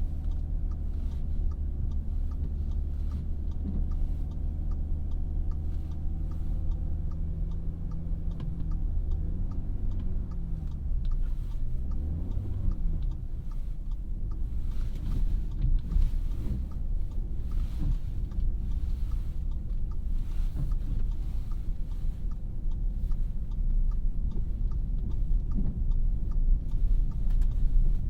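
Cabin sound of a 2017 Audi A3's 2.0-litre turbocharged four-cylinder idling with a steady ticking, likely the turn signal. About 9 seconds in it pulls away: the engine note rises and drops twice as the automatic shifts up, then road and tyre rumble builds as speed picks up.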